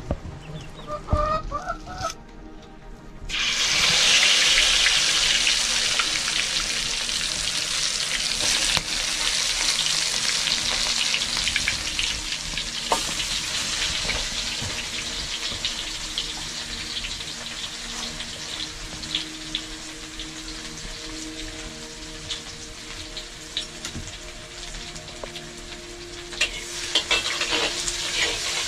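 Food frying in hot oil: a sizzling hiss starts suddenly about three seconds in, then slowly dies down, with crackles and spits throughout.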